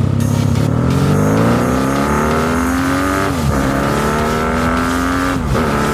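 Honda Magna motorcycle engine pulling hard through the gears: its pitch rises, drops sharply at an upshift about three seconds in, climbs again and drops at a second upshift near the end, with wind rushing over the microphone.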